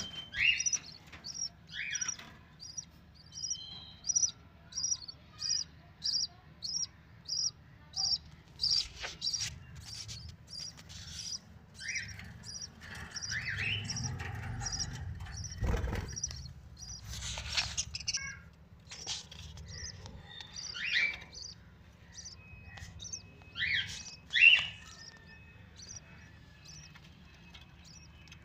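Budgerigar chicks chirping: a regular run of short, high cheeps, about two a second, with louder, lower calls now and then. There is a single low thump about sixteen seconds in.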